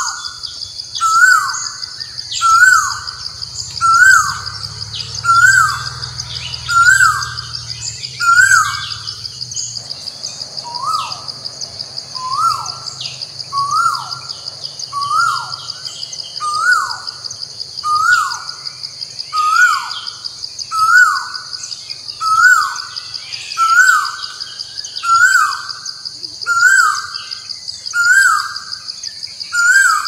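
A bird repeating a short rising-then-falling call about every second and a half, with a short break about ten seconds in, over a steady high-pitched drone.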